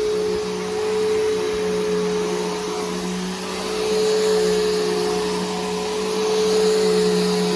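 Bissell Powerforce Helix Turbo upright vacuum, fitted with a new brushroll and belt, running while vacuuming: a steady motor hum over a rushing airflow hiss that swells and eases every few seconds.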